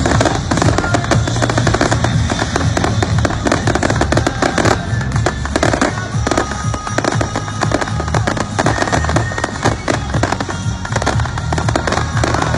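Fireworks going off in a dense, rapid crackling and popping, with music running underneath.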